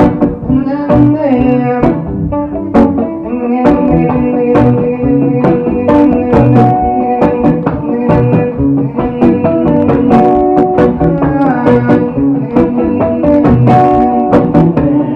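Live instrumental introduction to a song, led by guitar, with steady plucked notes and a regular rhythm.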